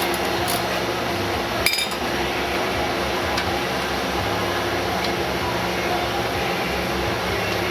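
A steady mechanical hum runs throughout. A single sharp metal clink, with a short ring, comes about two seconds in, and a few faint ticks follow later.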